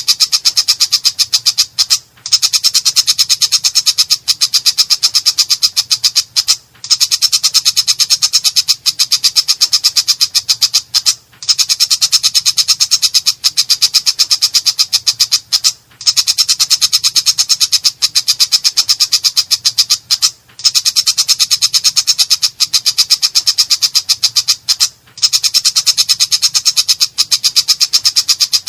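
Long-tailed shrike (cendet) singing a harsh, rapid-fire chatter of many notes a second. It comes in runs about four and a half seconds long with brief, evenly spaced breaks between them.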